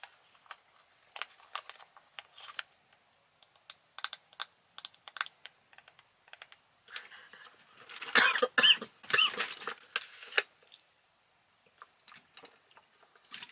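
Scattered light clicks and taps of makeup items being handled: compacts, brushes and cases. There is a louder, denser burst of clattering and rustling about eight seconds in that lasts a couple of seconds.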